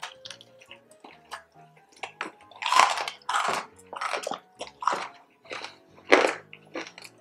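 Close-up chewing and crunching of crispy pork belly skin, in irregular bites and chews, the loudest crunches about three, five and six seconds in, over quiet background music.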